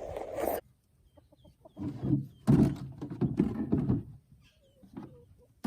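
Chickens clucking in short bursts, preceded by a few faint high chirps.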